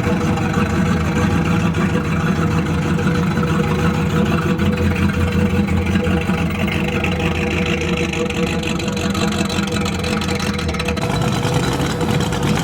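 A car engine idling steadily, its note shifting slightly near the end.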